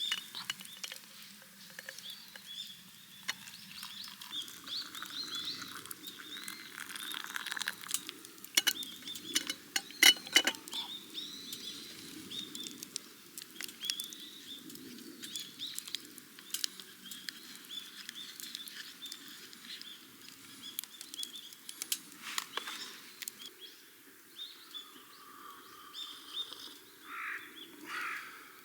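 Small birds chirping and calling over a steady low background noise, with a cluster of sharp clicks and knocks about eight to eleven seconds in.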